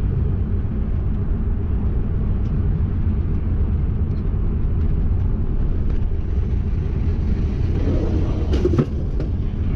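Steady low road and engine rumble heard from inside a moving vehicle's cabin. Near the end, a brief clatter as loose items fall over in the back.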